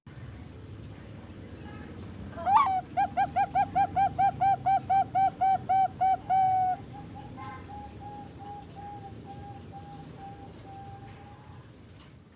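Young Bangkok-strain zebra dove (perkutut), about 3.5 months old, singing: a rising opening note, then a fast, even run of cooing notes, about four a second, ending in a longer held note, followed by a few fainter trailing coos.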